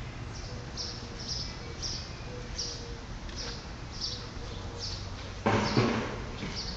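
A bird chirping over and over, short high chirps about every half second to a second. About five and a half seconds in, a brief loud rush of noise covers it.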